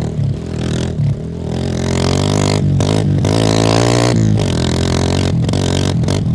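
Kawasaki KLX150's single-cylinder four-stroke engine, heard close at the exhaust, riding over a rough dirt track. The exhaust note climbs in pitch from about two seconds in, with several short breaks where the throttle is closed, over rattling and scraping from the bike on the rough ground.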